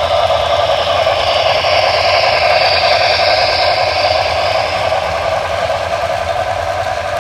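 HO scale model train running on the layout's track: a steady whirr of motor and wheels with a low hum, and a higher hiss that swells and fades in the middle.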